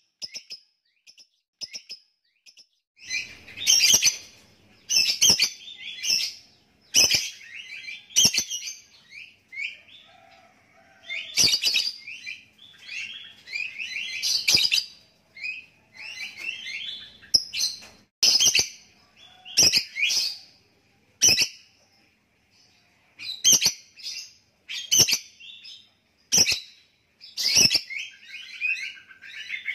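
Lovebird chattering in long runs of high, rapid twittering, broken by sharp clicks. Only a few short chirps at first; the chattering comes thick from about three seconds in.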